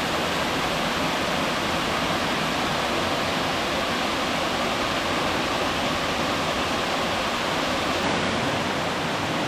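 Sidewinder Falls, a waterfall on Bear Creek, rushing steadily with a constant, even noise of falling water.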